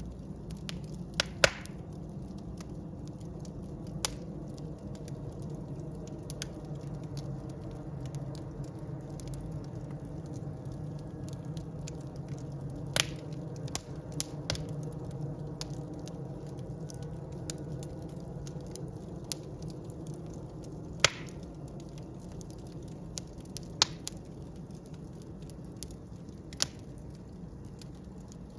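Wood fire burning in a fireplace: a steady low rumble of flames with scattered sharp crackles and pops, a few of them loud, including a pair about a second and a half in and a single one about two-thirds of the way through.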